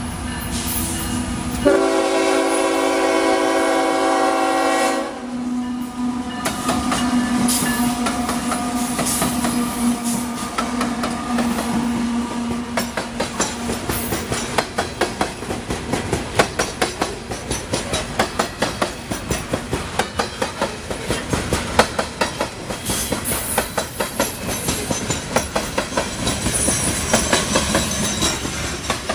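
A CSX diesel locomotive's air horn sounds one long blast about two seconds in, and the locomotives drone past. Then the coal train's hopper cars roll over a jointed rail, their wheels clicking at each joint in a steady clickety-clack rhythm that grows faster as the train accelerates.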